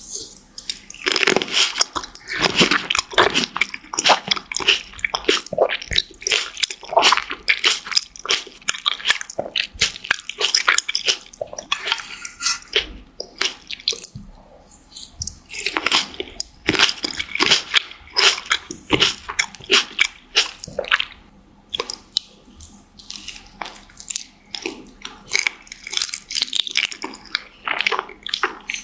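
Close-miked biting and chewing of fresh fruit: crisp crunches and wet, juicy squelching in bursts, with a couple of short pauses between bites.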